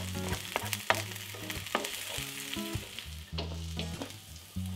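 Diced onion and garlic sizzling in oil in a wok, stirred with a wooden spoon, with many sharp clicks and scrapes over a steady hiss. Near the end, cubed aubergine is tipped in from a chopping board.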